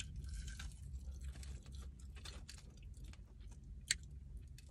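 A person chewing a bite of sauced fried chicken wing with the mouth close to the microphone: faint, scattered wet mouth clicks, one sharper click near the end, over a low steady hum.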